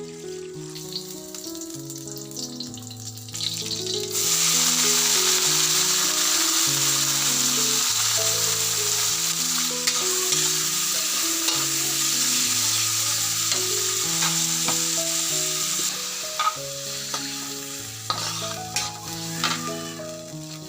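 Food frying in a pan, the sizzle starting suddenly about four seconds in and easing off toward the end, with a few light clicks near the end. Soft instrumental music plays underneath.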